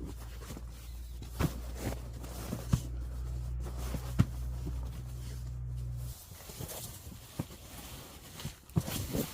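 Scattered light knocks and clicks, as of objects being handled, over a steady low hum that cuts off about six seconds in.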